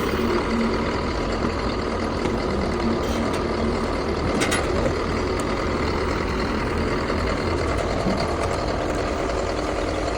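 Heavy engine running steadily, with a brief high-pitched sound about four and a half seconds in.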